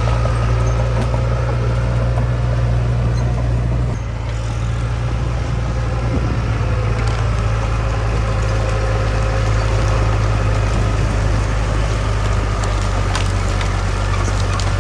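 Heavy diesel earthmoving machinery running steadily, with a low engine drone and a faint steady whine above it; the engine note shifts about four seconds in, and a few faint knocks come near the end.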